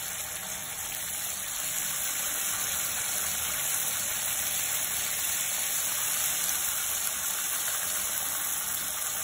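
Rice-flour chekkalu sizzling steadily as they deep-fry in hot oil in a kadai.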